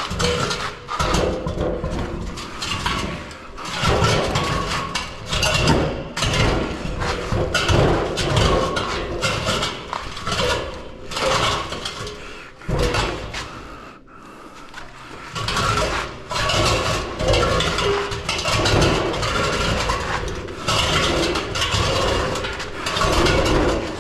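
Irregular clattering, knocking and scraping, loud throughout, with a quieter stretch a little past halfway.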